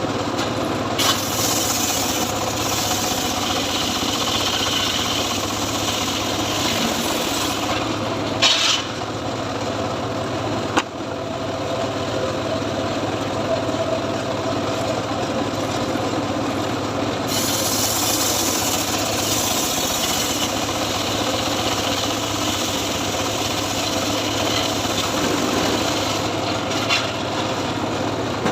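Homemade engine-driven sawmill running steadily while its blade cuts through teak, with a hissing rasp of the cut from about a second in until about eight seconds, and again for a few seconds past the middle. A couple of sharp knocks come at about eight and a half and eleven seconds.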